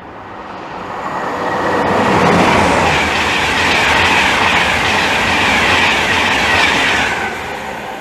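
An LNER InterCity 225 passes through the station at speed: a Class 91 electric locomotive with Mark 4 coaches and a driving van trailer. The rush of wheels on rail swells over the first two seconds, stays loud with a rhythmic clatter, then fades near the end.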